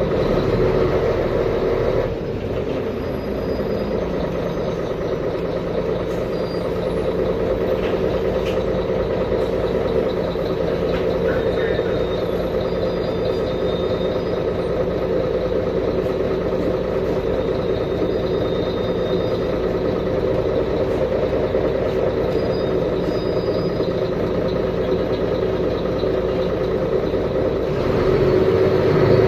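Mercedes-Benz Conecto G articulated bus's OM457LA straight-six diesel engine running steadily. It eases off slightly about two seconds in and picks up again near the end.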